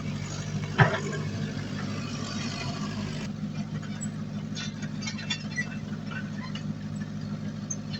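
Heavy diesel engine of an earthmoving machine running steadily, with one sharp knock a little under a second in and scattered light clanks after it.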